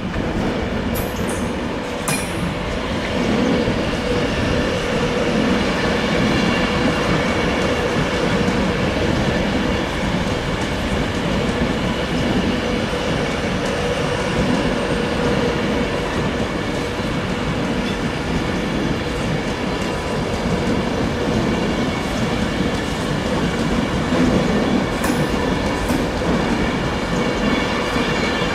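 Train running past on the rails: a loud, continuous rumble with steady high tones above it, and a few sharp clicks about a second in and again near the end.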